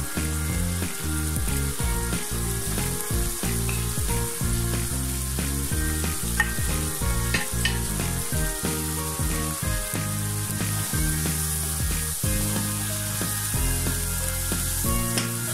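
Oil sizzling in a nonstick wok as onions fry with ginger-garlic paste and powdered spices are added, stirred in with a spatula near the end. There are a few sharp clicks about halfway, over soft background music.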